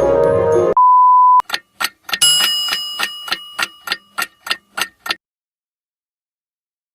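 Music cuts off and a short steady beep sounds. Then comes a run of sharp ticks like a clock, about three a second, with a bell ding ringing out and fading over them, followed by silence for the last two seconds.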